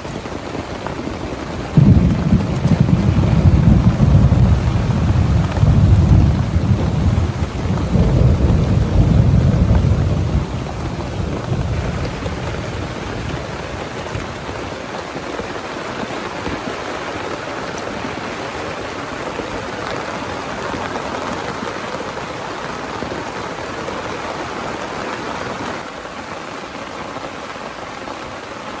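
Heavy rain falling steadily, with a loud roll of thunder that breaks in suddenly about two seconds in, rumbles for about eight seconds, then fades.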